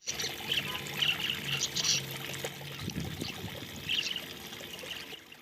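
Water trickling and splashing in short, irregular spurts over a faint steady low hum.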